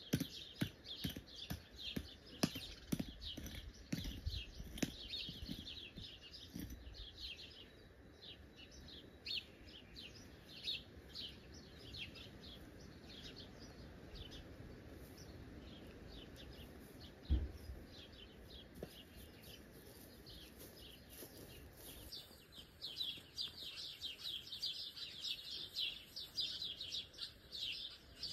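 Many songbirds chirping and singing, densest near the end, with scattered low knocks early on and one heavier thud about 17 seconds in.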